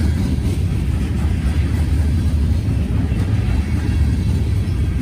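Freight train rolling past: a steady, loud low rumble from the wheels and cars, including a car carrying a pipe load.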